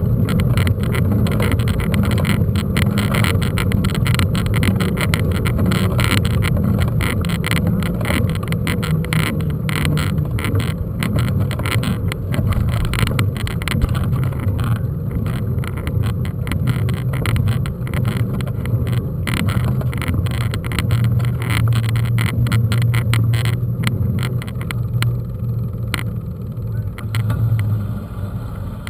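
Mountain bike riding over a rough trail: a steady low rumble with frequent rattling knocks.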